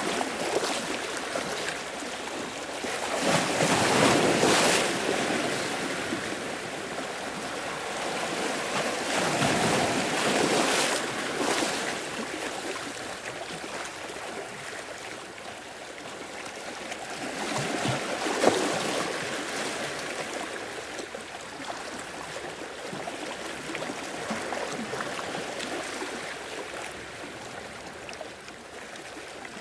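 Sea waves washing in and draining back, a continuous hiss that swells with each surge, the biggest about four, ten and eighteen seconds in.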